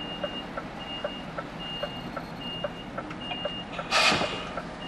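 Lorry reversing alarm beeping steadily, a high single-tone beep repeating about every 0.8 seconds, with a faster regular ticking underneath. About four seconds in there is a short loud hiss of air, which is the loudest sound.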